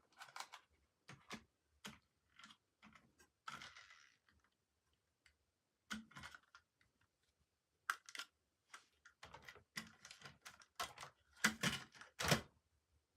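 Irregular clicks and taps of plastic toys and packaging being handled during unboxing, with a brief rustle about three and a half seconds in and a quicker run of clicks near the end.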